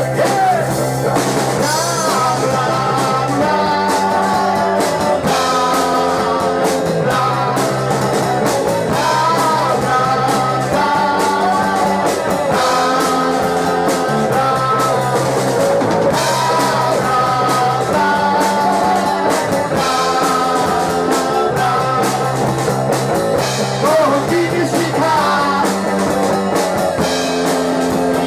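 Rock band playing live: drum kit, electric guitar and bass in a steady beat, with a melody line over them.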